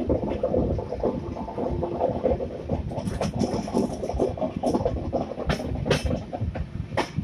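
Passenger train running on the rails, heard from the side of a coach: a steady rumble of wheels on track with irregular sharp clacks, several in the second half, as the wheels cross rail joints and points.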